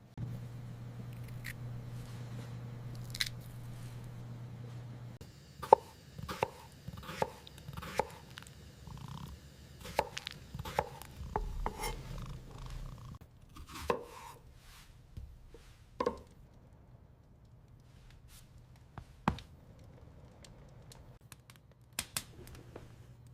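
A run of irregular light knocks and clicks, several a second at their busiest, after a low steady hum that stops about five seconds in.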